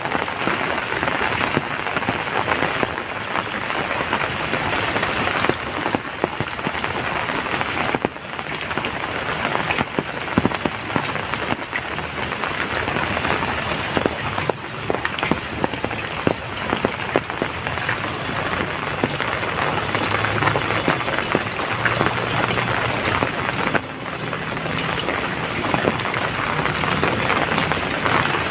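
Heavy rain falling steadily, with many close drops pattering onto a hard surface.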